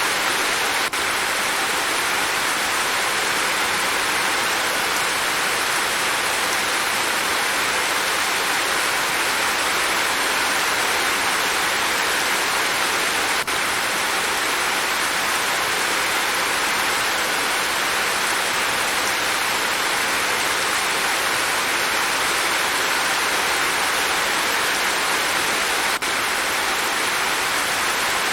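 Steady heavy rain falling: an even, constant hiss with no single drops or pitched sounds standing out.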